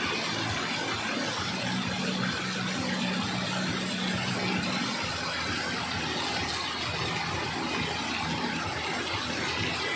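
Heavy rain falling in a steady downpour, with a low hum underneath.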